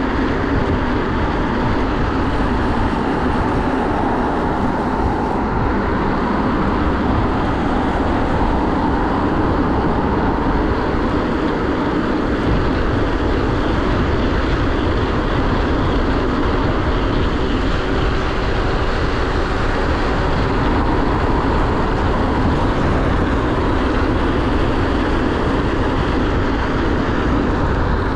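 Steady wind rush over the microphone and road noise while riding a bicycle along a busy road, with traffic running alongside.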